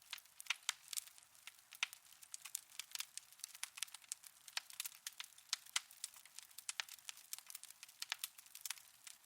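Wood fire crackling in a fireplace: irregular sharp pops and crackles, several a second, over a faint hiss.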